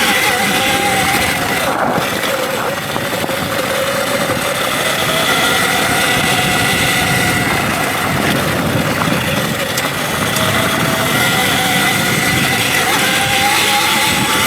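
Electric dirt bike's motor whining, its pitch rising and falling gently with speed, over a constant rushing noise from the ride.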